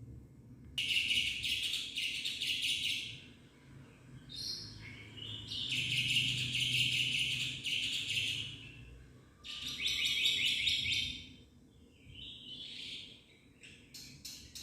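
Black-winged myna (jalak putih) singing in four loud bursts of chattering song, ending with a quick run of short repeated notes.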